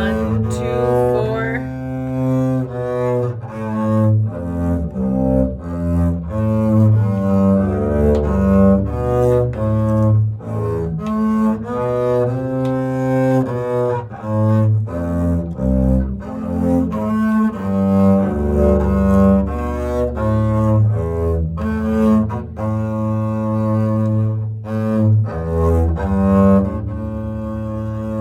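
Double bass played with the bow: a steady line of single notes, each held about half a second to a second, moving between strings in an exercise passage full of bow crossings.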